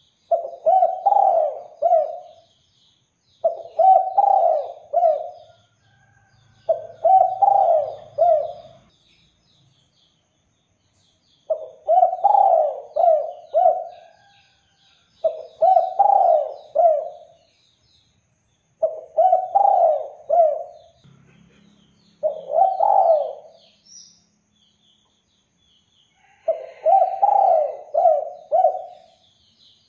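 Spotted dove (derkuku) cooing over and over, about eight calls with pauses between them, each call a short run of three or four coos. Faint high chirping of small birds in the background.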